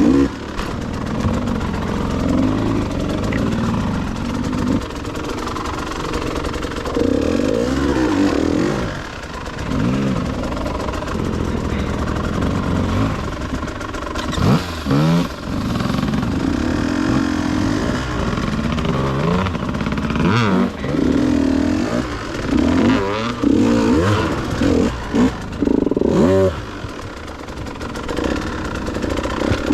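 Dirt bike engine revving up and down repeatedly as the throttle is opened and closed, with several sudden drops in revs.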